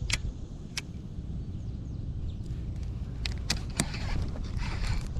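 Wind rumbling on the microphone, with sharp clicks and knocks scattered through it: two in the first second and a cluster from about three seconds on.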